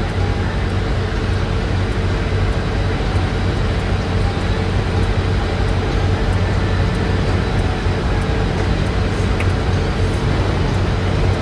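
A heavy diesel engine idling: a steady low hum with no change in speed.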